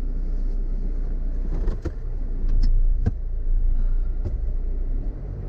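Off-road vehicle driving on a rough dirt track: a steady low engine and road rumble, broken by a few sharp knocks and rattles.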